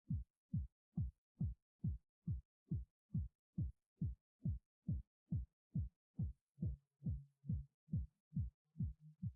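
Background music reduced to a steady electronic kick-drum beat, a little over two low, falling thumps a second with silence between them. A low held bass note joins near the end.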